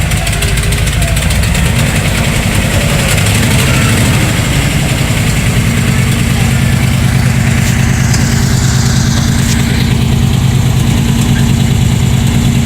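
Engine of a school-bus monster truck idling loud and steady.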